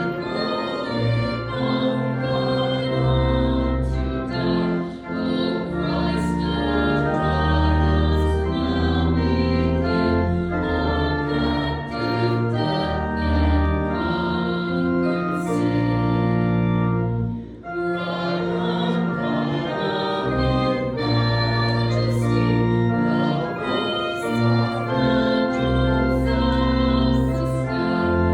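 Organ playing a hymn in slow, held chords with a sustained bass line, with a congregation singing along; there is a short break in the music about two thirds of the way through.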